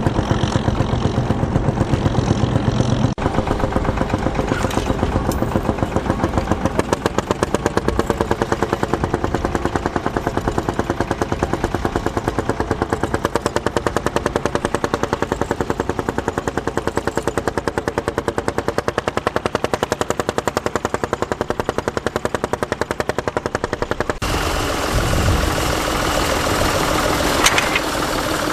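Marshall tractor's single-cylinder diesel engine working hard under plough load, a rapid, steady run of sharp exhaust beats. About three quarters of the way through, the sound turns abruptly brighter and harsher.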